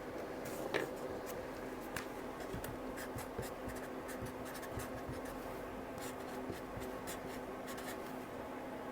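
Light clicks, taps and scraping of small parts being handled on a workbench, with one sharper click about a second in, over a steady low hum.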